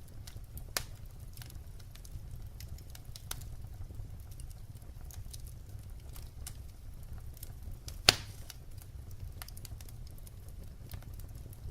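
Wood fire crackling: scattered small snaps and pops over a steady low rumble, with one sharp, much louder pop about eight seconds in.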